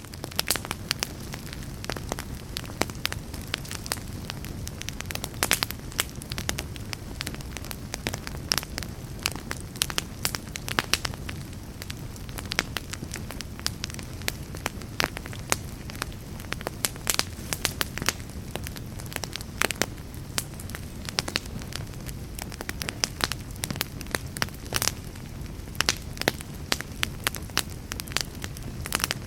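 Wood fire crackling in a fireplace: burning logs give off frequent, irregular sharp pops over a steady low rumble of flames.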